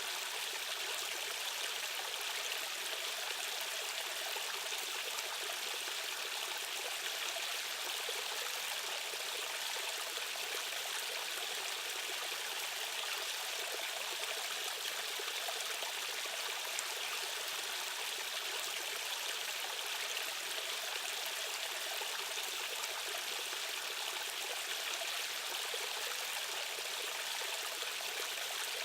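Rushing water of a fast-flowing stream current, a steady, unbroken hiss with little low rumble.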